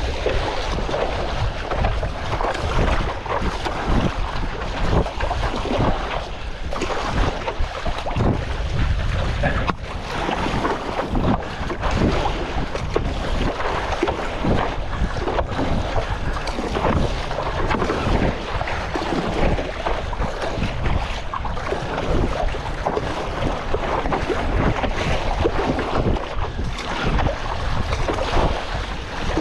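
Strong wind buffeting the microphone over choppy seawater, with irregular splashing and slapping of chop against a stand-up paddleboard.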